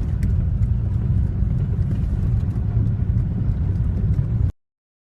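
Steady low rumble of a car driving, engine and road noise, with a few faint ticks; it cuts off abruptly near the end.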